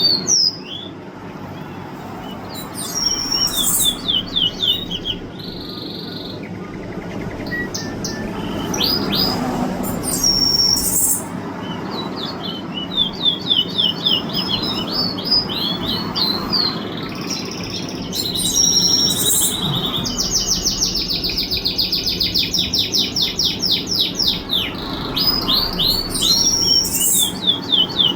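A songbird singing: bursts of quick chirps and fast rattling trills, repeated again and again, with the longest trill about two-thirds of the way through.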